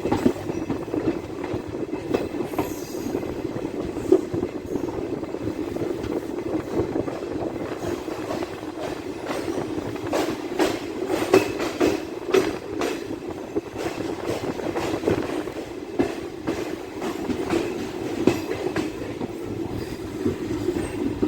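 DEMU passenger train running along the track: a steady rumble with the wheels clicking over rail joints, the clicks thickest about halfway through.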